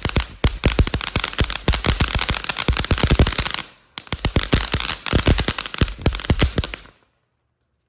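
Consumer fireworks going off in a rapid, dense string of sharp cracks and pops, pausing briefly in the middle, then resuming and cutting off abruptly near the end.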